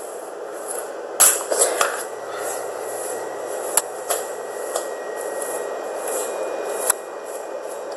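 Light handling noises: a few sharp clicks and small knocks with some rustling over a steady background hiss.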